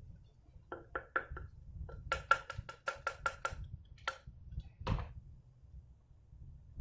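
Hard plastic model airplane parts clicking and knocking as they are handled and fitted: a few hollow clicks, then a quick run of about eight, then two single knocks, the last the loudest.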